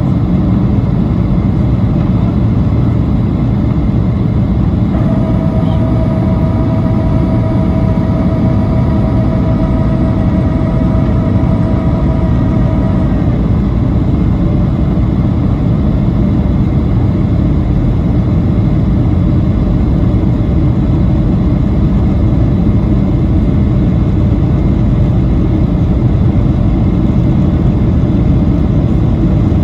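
Cabin noise inside a Boeing 737-800 in flight, a steady roar of airflow and its CFM56 engines. A steady higher whine joins about five seconds in and stops about eight seconds later.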